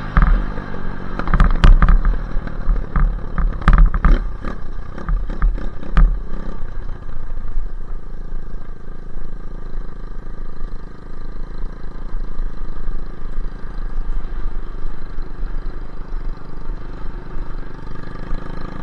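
Dirt bike engine running, with a string of sharp knocks and clatter over it in the first six seconds, then holding a steady note.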